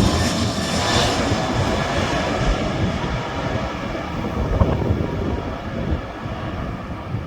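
Aircraft engine noise as a plane passes and moves away: a loud, rushing sound whose hiss fades from about two seconds in, leaving a lower rumble that slowly dies down.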